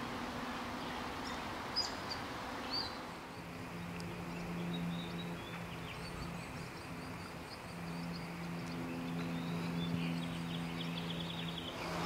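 Outdoor ambience: a few short bird chirps, then a quick run of chirps near the end, over a steady background hiss and a low hum that comes and goes.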